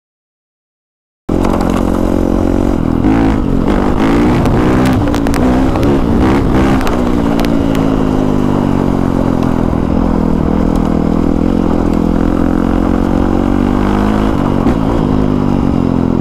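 Motorcycle engine running, starting about a second in and held mostly steady, with small rises and dips in pitch and some clatter in the first few seconds.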